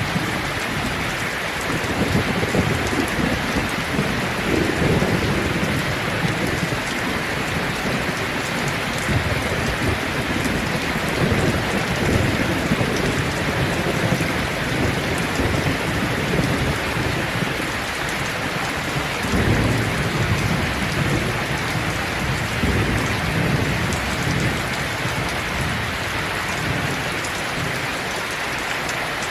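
Steady rain falling on leaves, an even hiss of drops, with a low rumble that swells and fades several times.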